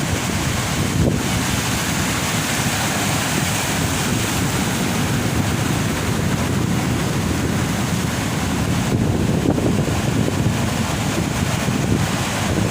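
Heavy ocean surf breaking and washing on the beach in a steady roar, with wind buffeting the microphone.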